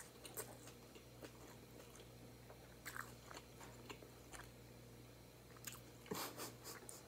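Faint close-up chewing and crunching of a mouthful of grilled chicken salad, with small wet mouth clicks and a denser run of crunches near the end.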